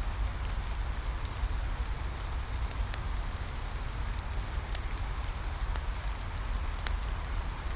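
Steady rain falling, mixed with a bonfire crackling: a constant hiss with scattered sharp pops and a low rumble underneath.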